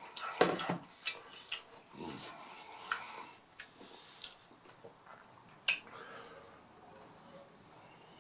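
Close-up eating of crispy mini beef tacos: hard taco shells crunching under bites and chewing, with sharp clicks and light clatter of plate and utensils. The loudest crunch comes just after the start.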